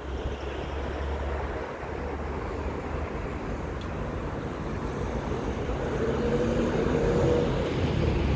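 Steady low engine hum over outdoor background noise, growing louder, with a pitched engine drone rising slightly in pitch from about six seconds in.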